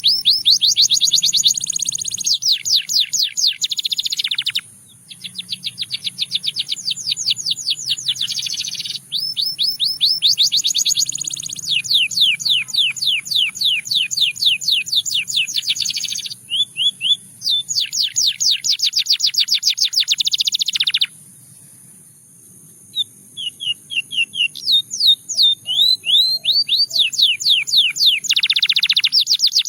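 Russian singing canary singing a long song of fast trills, each a run of quick repeated down-slurred notes, changing from one trill to the next with brief breaks and a pause of about two seconds past the middle.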